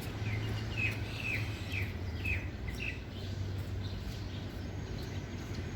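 A pipit calling: a quick run of about seven short chirps, some sliding downward, over the first three seconds, with a steady low hum underneath.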